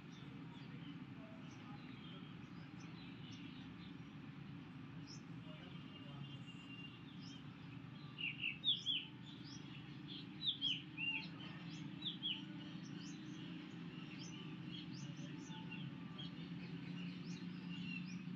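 Faint small-bird chirps, short high calls coming in little clusters around the middle, over a low steady hum.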